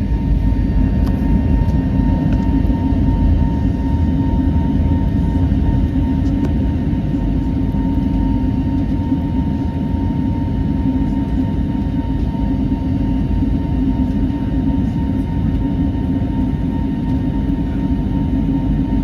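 Boeing 737 cabin noise heard from a window seat: a steady, loud rumble of jet engines and airflow, with a thin steady whine above it.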